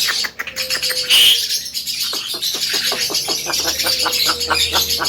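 Javan myna (jalak kebo) calling: dense high chatter with a short loud note about a second in, then a rapid run of sharp clicks, about five a second, through the second half.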